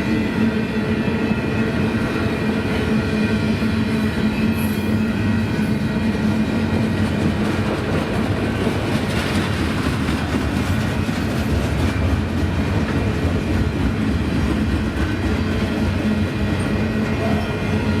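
Union Pacific double-stack intermodal train rolling past, its car wheels clicking over the rail, with steady tones held under the rolling noise.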